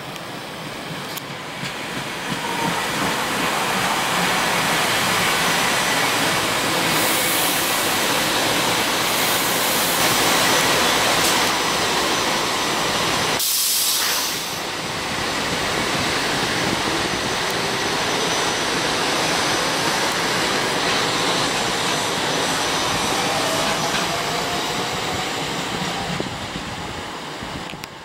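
SEPTA Silverliner IV electric multiple-unit train passing close at speed: a steady rush of wheels on rail that builds over the first few seconds, dips briefly about halfway and eases near the end. A faint rising whine comes in during the last few seconds.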